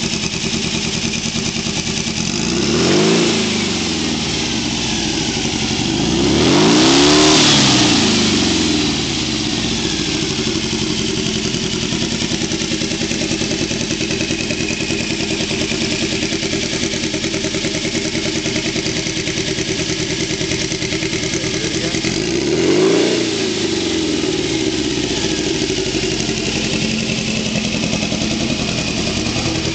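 Turbocharged 1955cc air-cooled VW flat-four engine idling and being revved three times: a quick blip about three seconds in, a longer rev about six to eight seconds in with a hiss at its peak, and another quick blip about twenty-three seconds in, each falling back to idle.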